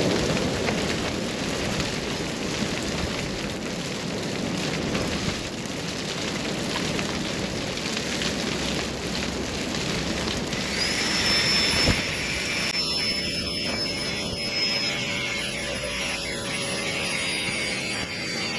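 Strong blizzard wind blowing hard, a dense steady rush of noise. About eleven seconds in a thin high whistle comes in and slowly falls in pitch, with a single knock just after it.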